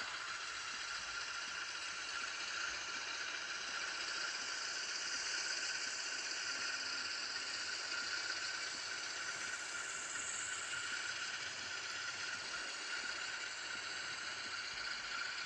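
Steady rushing and rattling noise of a train running, with no speech.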